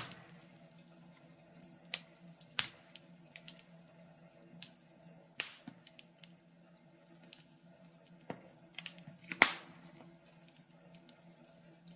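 Wood fire crackling in a fireplace: scattered sharp pops and snaps at irregular intervals, with one loud pop about nine seconds in.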